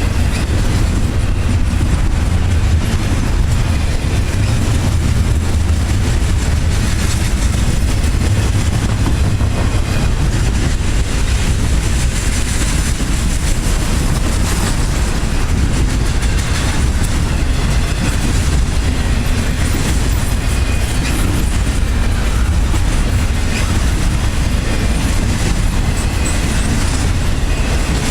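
A train rolling steadily past: a continuous rumble of its cars on the rails, with faint wheel clicks now and then.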